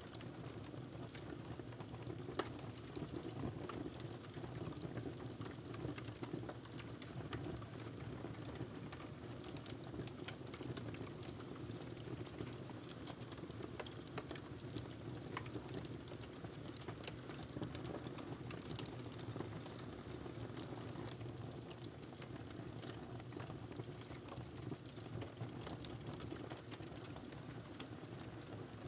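Wood fire crackling in a fireplace: a steady low rumble with many small, irregular pops and snaps.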